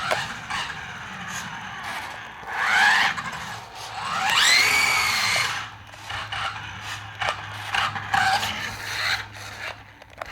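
9.6-volt Tyco Twin Turbo RC car's electric drive whining as the throttle is blipped: the pitch rises steeply in two long bursts, around three and five seconds in, and in shorter bursts later on.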